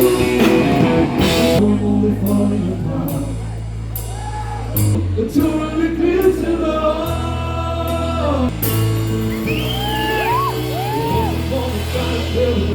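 Live rock band playing: a singer's voice over bass, electric guitar and drums.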